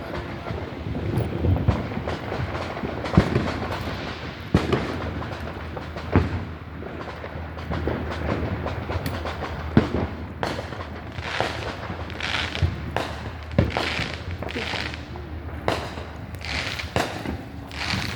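Fireworks going off: scattered sharp pops and bangs, then, from about ten seconds in, a run of hissing bursts roughly a second apart.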